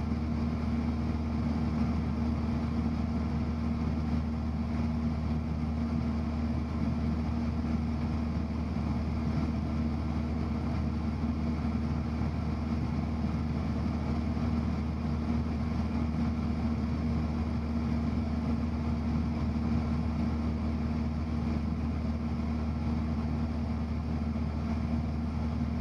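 Steady drone of a Cessna 172's engine and propeller in level flight, heard inside the cabin, holding an even pitch and level throughout.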